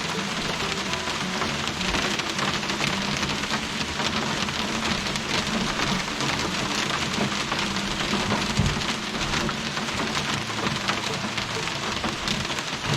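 Steady rain falling, a dense hiss of many small drops pattering, with one low thump a little past the middle.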